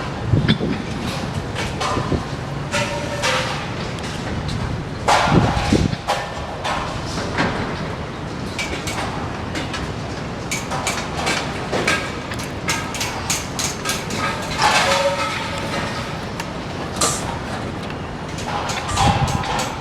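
Steady rain and gusting wind, with frequent knocks and rattles throughout.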